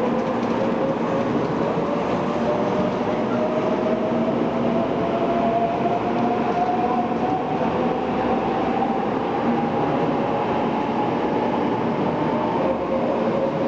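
Shinkansen bullet train pulling out of the station and gathering speed past the platform: steady running noise with a motor whine that rises slowly in pitch as it accelerates.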